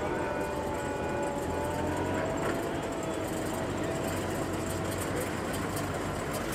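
Veteran cars running in the square: a steady low engine hum with a faint whine that slowly drifts in pitch, and a few light ticks near the end.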